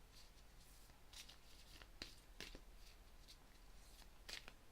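Faint rustles and soft clicks of a tarot deck being shuffled by hand, a few separate flicks of the cards.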